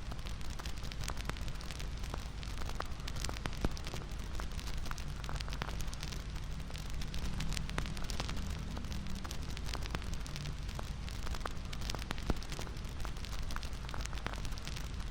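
Wood fire crackling, with irregular sharp pops over a steady low rush.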